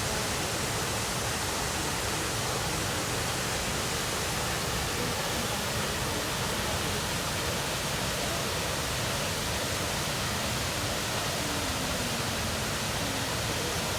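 Steady roar of a large waterfall, an even rush of falling water with no change in level.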